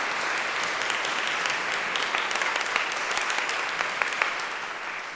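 Audience applauding with many hands clapping at once, steady and then dying away near the end.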